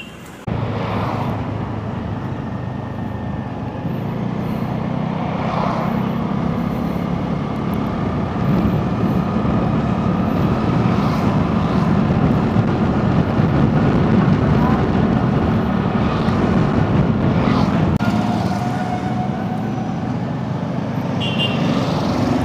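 Road traffic noise with a motor vehicle running: a dense, steady low rumble that slowly grows louder, with a few brief higher sounds over it.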